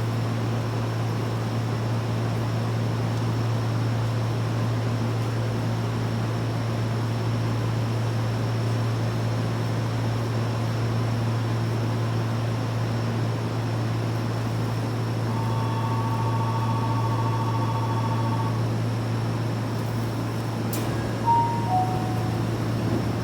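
Steady low hum and fan-like noise of a Seibu 6000 series electric train car. Two steady electronic tones sound together for about three seconds midway, and a click and a short falling two-note chime come near the end.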